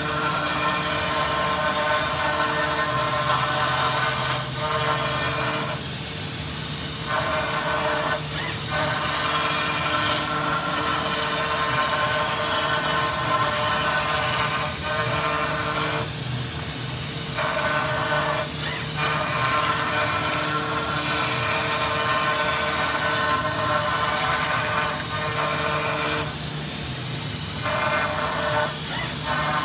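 CNC machine milling metal: a steady cutting whine with hiss over the spindle's hum. The cutting sound breaks off for about a second roughly every ten seconds, then picks up again, in a repeating pattern of passes.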